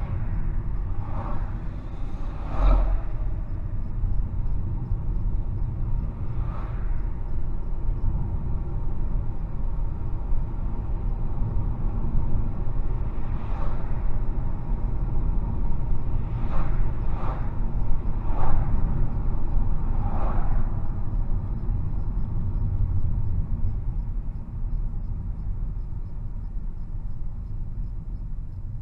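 Steady low rumble of a moving car, with a few brief knocks or clicks scattered through it.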